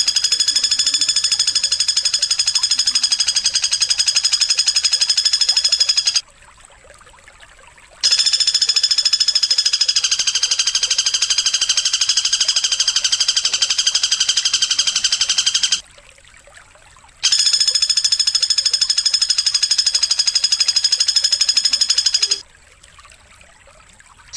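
A long, high-pitched buzzing trill from a masteran (songbird tutor) recording, held steady in pitch and pulsing very fast, sounded three times for several seconds each with short pauses between.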